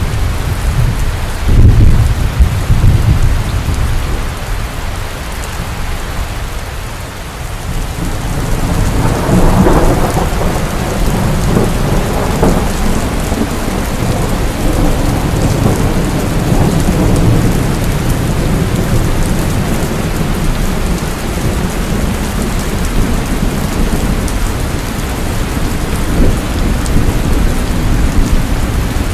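Heavy rain falling steadily, with thunder: a loud rumble about two seconds in, then a longer roll of thunder that builds and rumbles on from about eight seconds in.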